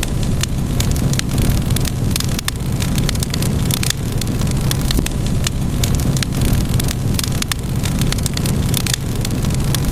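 Wood fire crackling: irregular sharp pops and crackles over a steady low rumble.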